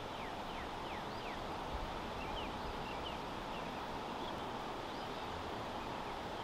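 Steady outdoor background hiss with a bird calling over it: a run of quick downslurred notes, about three a second, that thins out to scattered chirps in the middle and picks up again near the end.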